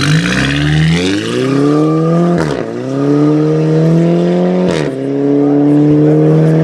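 Straight-piped Volkswagen Golf GTI Mk6's turbocharged 2.0-litre four-cylinder accelerating hard through the gears. The engine note climbs, drops suddenly at an upshift about two and a half seconds in and again near five seconds, with a sharp crack at each shift, then climbs more slowly in the higher gear.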